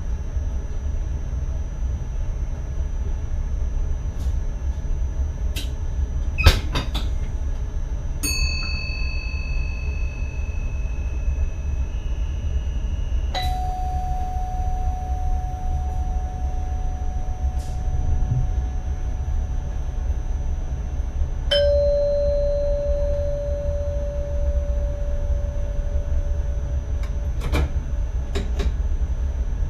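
Cab of an NS ICM electric train running, with a steady low rumble. Over it come a few sharp clicks and three separate single dings, each struck and ringing on for several seconds at a different pitch.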